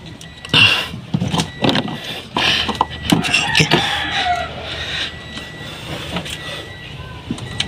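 Clatter and sharp knocks of hands and tools working on a car, over a steady low hum, with a rooster crowing briefly about four seconds in.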